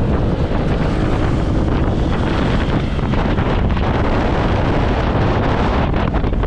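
Wind buffeting the microphone on a moving motorbike: a loud, steady rumble of wind noise.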